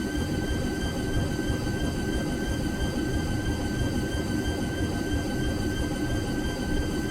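Washing machine running: a steady rumble with a constant high whine over it that holds unchanged throughout.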